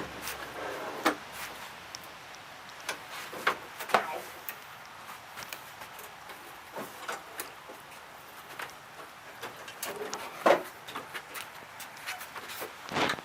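Scattered knocks, bumps and clatters of a walk-behind lawn mower being pushed and maneuvered into storage. The loudest bang comes about ten seconds in and another near the end.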